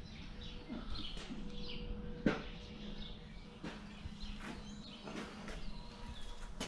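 Small birds chirping in short, scattered calls, with a few sharp knocks and clinks (the loudest about two seconds in) over a faint steady hum.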